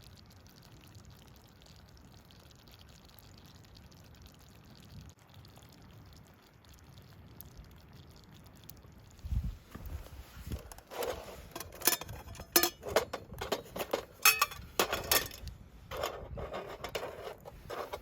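Faint steady hiss for about the first half, then a low thud and a quick, irregular run of knocks and clinks of hard objects being handled.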